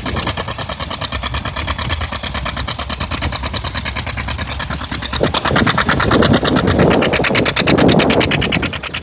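Tractor engine running with a rapid, even firing rhythm. From about five seconds in, a louder rushing sound joins it for some three seconds.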